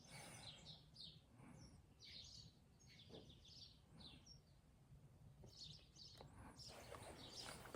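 Faint birdsong: many short, high chirps from small birds, over a low background rumble.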